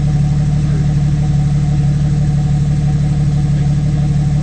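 An off-road 4x4's engine idling steadily.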